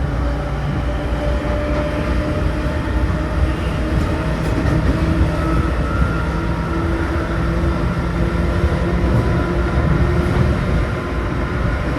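Seibu New 2000 series electric commuter train running at steady speed: a constant rumble of wheels on rail with several steady tones from the running gear, and a few faint clicks.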